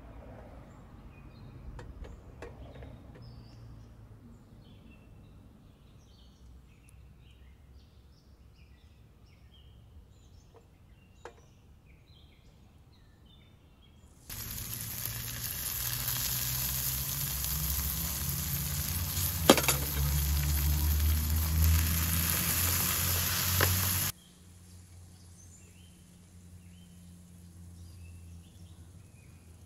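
Food sizzling loudly in hot oil as it is tipped into a steel pan on a portable gas stove. It starts suddenly about halfway through, runs about ten seconds with a sharp click in the middle, and cuts off abruptly.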